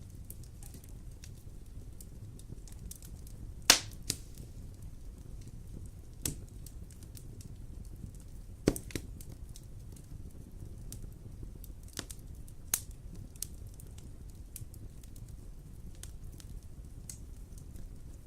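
Wood fire crackling: irregular sharp pops and snaps over a low, steady rumble of the flames. The loudest pops come about four seconds in and again about nine seconds in.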